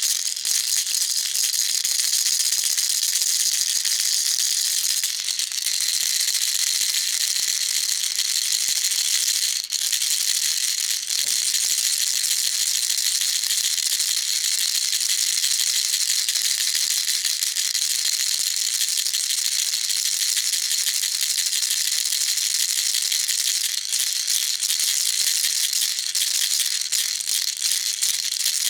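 Baby rattle shaken continuously: a dense, steady, high-pitched rattling.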